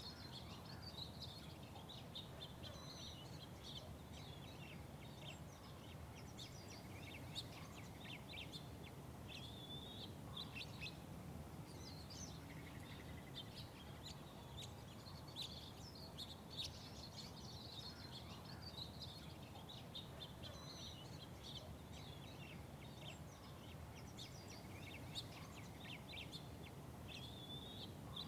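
Small songbirds chirping and calling, many short notes repeated throughout, over a steady low background rumble.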